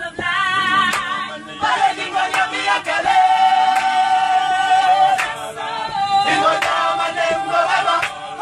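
A group of voices singing together a cappella, with a long held note in the middle.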